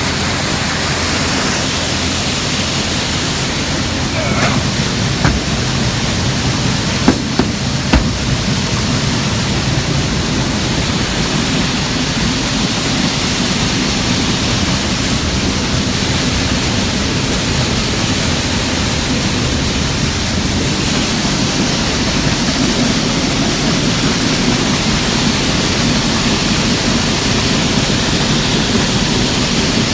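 Steady loud rushing noise over a low drone, with a few sharp knocks about five to eight seconds in.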